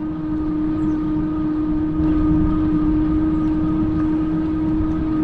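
Electric Bike Company Model R fat-tire e-bike riding at steady speed: a constant humming tone from the running drivetrain and tyres over low wind rumble on the microphone.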